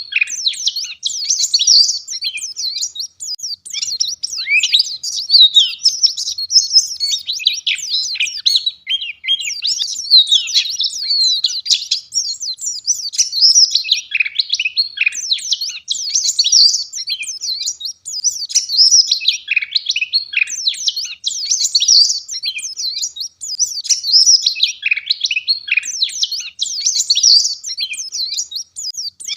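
White-eye (pleci, Zosterops) singing a fast, dense, high-pitched twittering song, in phrases of a few seconds separated by brief pauses.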